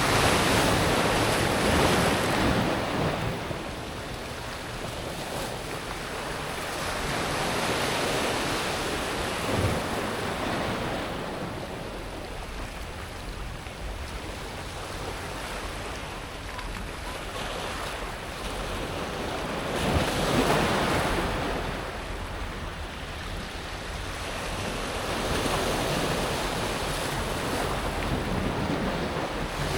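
Small Mediterranean waves breaking and washing back over a pebble beach, the water swelling and fading in several slow surges every few seconds, the loudest about two-thirds of the way through.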